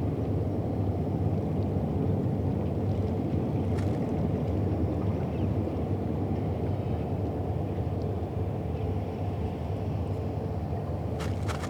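Steady low engine rumble from a boat on the river, with a couple of brief faint ticks, one about four seconds in and another near the end.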